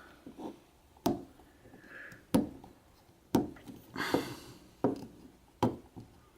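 A handful of sharp plastic clicks and knocks, about seven at uneven intervals with a brief rustle around four seconds in, as AA batteries are worked out of the battery compartment of a Uniden Bearcat BC125AT handheld scanner.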